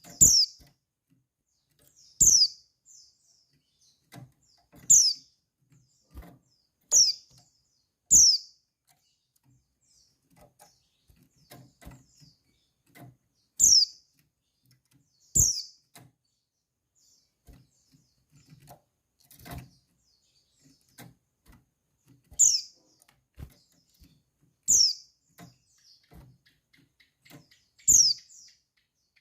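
Female white-eye (pleci) giving its call: short, high, sharp notes, each falling quickly in pitch, about one every two to three seconds with a longer pause around the middle. Faint taps and rustles sound between the calls.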